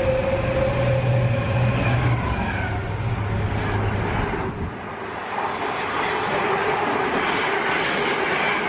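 Train running past close by on the track: a steady low hum with a held whine above it for the first four or five seconds, then a rushing noise with a fainter whine.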